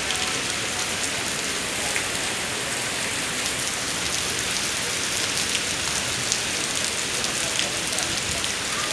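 Heavy rain falling steadily: a dense, even hiss of drops with scattered sharper drop ticks.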